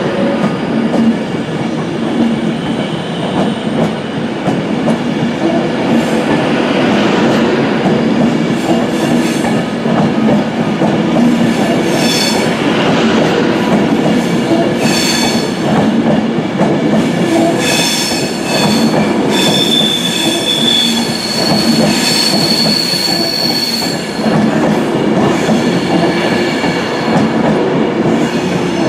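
An Avanti West Coast Class 390 Pendolino electric train runs along the platform, carriage after carriage passing with a steady rumble and clicking over the rail joints. Through the middle stretch its wheels squeal in high, thin tones that come and go.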